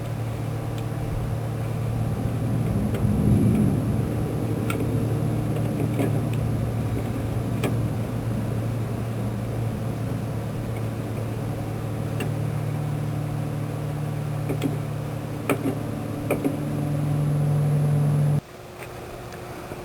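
Electric motor of a fifth-wheel trailer's front landing gear running steadily, driving the jackscrews to work grease up through the threads, with a few light clicks. It grows a little louder near the end and cuts off suddenly a second or so before the end.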